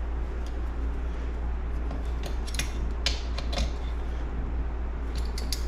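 Small metal clicks and taps of hand tools and engine parts being handled during reassembly, in two clusters, one around the middle and one near the end, over a steady low hum.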